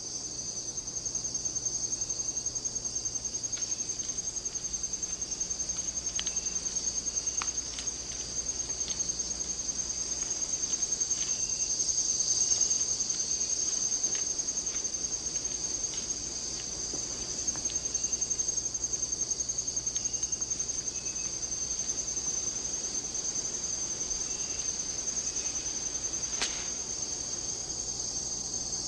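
Rainforest insects trilling, a steady, high-pitched, very rapid pulsing chorus, with a few faint ticks and short chirps scattered through it.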